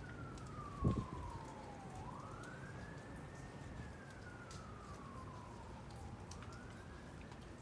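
Emergency-vehicle siren on a slow wail, its pitch rising and falling over a cycle of about four seconds. A brief low thump comes about a second in.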